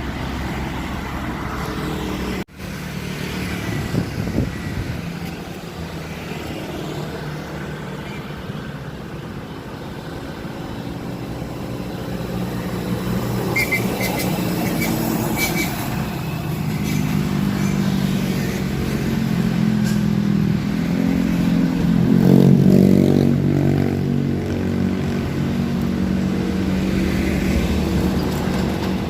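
Truck engine labouring under load on a steep uphill climb, with road traffic around it; the engine grows loudest about three quarters of the way through.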